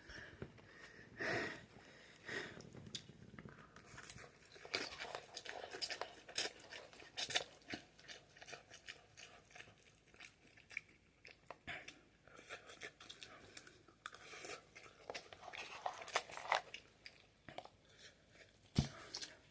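Someone eating Buldak instant ramen close to the microphone: chewing, with many short wet clicks and smacks. A single sharp knock near the end.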